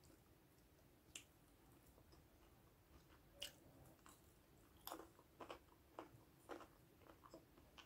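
Faint close-miked chewing: soft, scattered mouth clicks, a few at first and more frequent in the second half.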